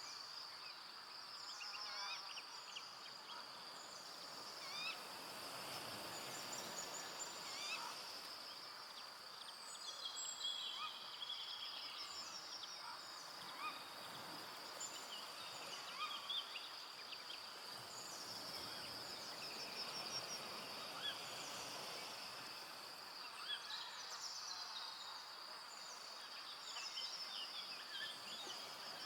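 Forest ambience at dusk: a steady high-pitched insect trill under many short bird chirps and whistles.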